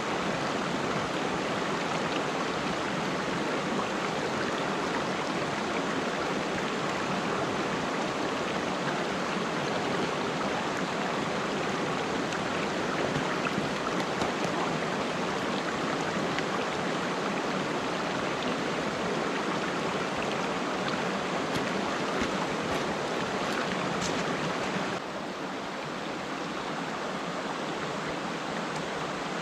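Gorge river rushing steadily, an even wash of flowing water. Near the end it turns slightly quieter and duller.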